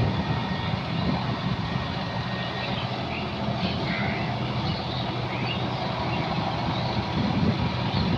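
John Deere 5210 tractor's diesel engine running steadily, working a rotavator through wet mud.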